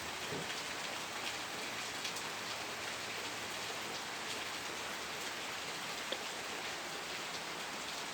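Steady rain falling on a surface, an even hiss with scattered individual drops, and one sharper drop tick about six seconds in.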